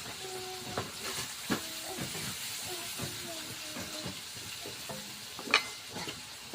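A steady sizzling hiss, as of food frying in a pan, under faint voices, with a few sharp clicks or knocks, the loudest about five and a half seconds in.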